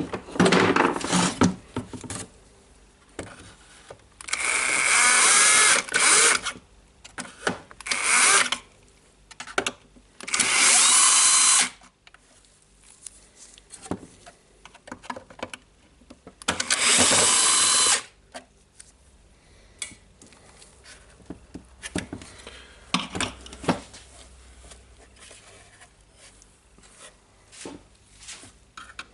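A cordless power screwdriver runs in four short bursts, about two seconds or less each, backing out the housing screws of a DeWalt site radio. Its motor pitch rises and falls within each run. Small clicks and handling knocks fill the gaps between runs.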